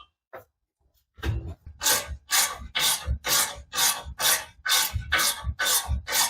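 Rhythmic back-and-forth rasping strokes of a hand tool worked against metal, about two a second, starting about a second in.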